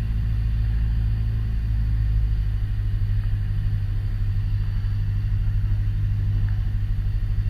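Piper PA-28 Warrior's four-cylinder engine and propeller droning steadily in the cockpit at low power on final approach.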